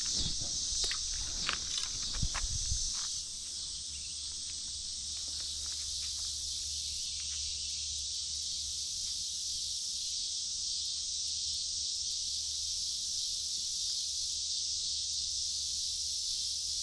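Steady high-pitched chorus of insects, with a fainter higher layer that pulses on and off. A few knocks and low thumps in the first three seconds.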